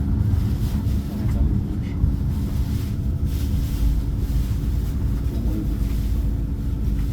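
Steady low rumble of a Fuxing high-speed train running, heard inside the passenger car, with a faint steady hum over it.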